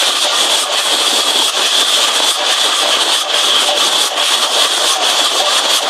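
Train noise: a loud, steady rushing hiss with faint irregular clicks, keeping an even level throughout.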